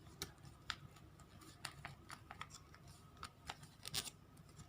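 Square origami paper being folded and creased by hand: faint, scattered crinkles and short crisp rustles, the loudest about four seconds in.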